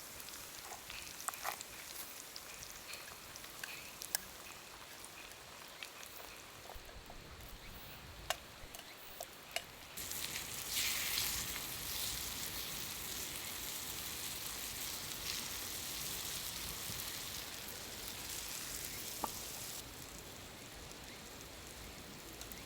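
Food sizzling in a hot skillet: a dense hiss that starts suddenly about ten seconds in and falls back about ten seconds later, with scattered small clicks and crackles before it.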